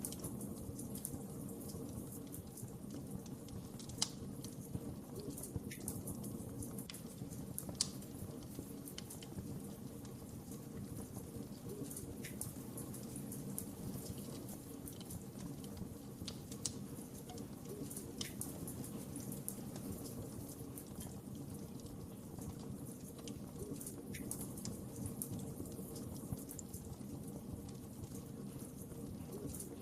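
Wood fire burning in a fireplace: a steady low rumble of flames with scattered sharp crackles and pops, two of them louder, about four and eight seconds in.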